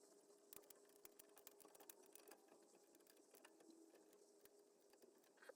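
Near silence: faint, scattered light ticks and clicks over a faint steady hum.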